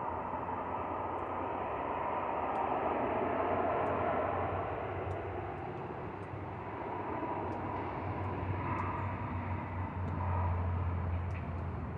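Steady engine rumble with a low hum. It swells twice, about a third of the way in and again near the end.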